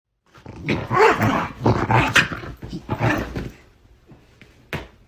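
A dog growling and grumbling in several rough bursts for about three seconds, then a single sharp click near the end.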